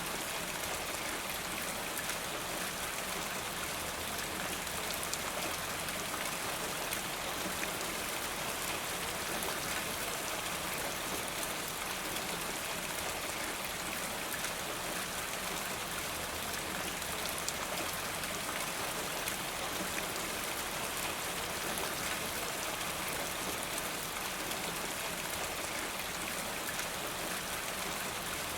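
Steady rain falling, with many small drops striking surfaces and a constant hiss, and a trickle of runoff water as from a rain gutter.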